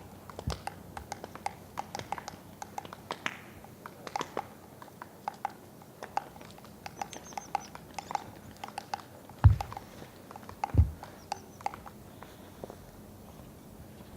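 Three-toed woodpecker pecking and chipping at wood: irregular sharp taps, several a second, with two louder dull thumps about two-thirds of the way in.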